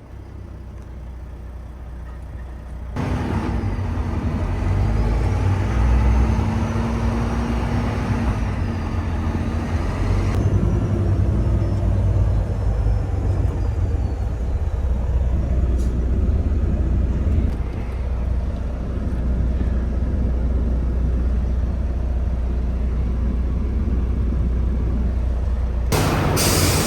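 Semi truck under way: a steady low engine and road rumble, louder from about three seconds in.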